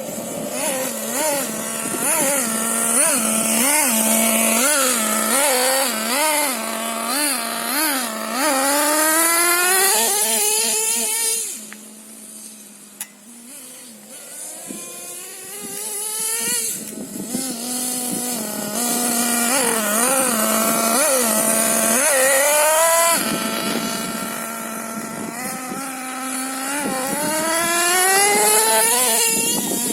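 Small two-stroke nitro engine of an RC monster truck (LRP ZR.28) running: a steady idle broken by quick throttle blips, then several long rising revs as the truck accelerates. It goes quieter for a few seconds near the middle before revving up again.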